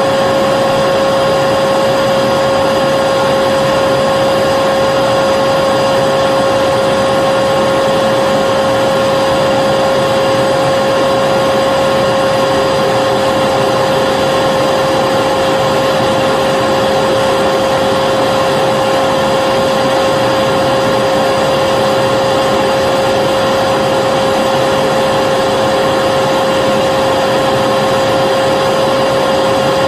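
Vacuum cleaner motor running steadily, a constant whine over a rushing of air with no change in pitch or level.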